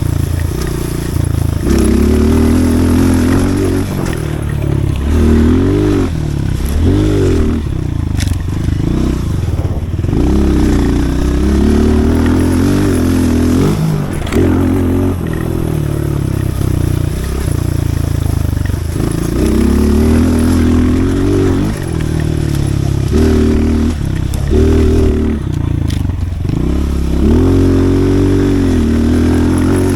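Pit bike's small single-cylinder engine being ridden hard, its revs climbing and falling off again and again with the throttle.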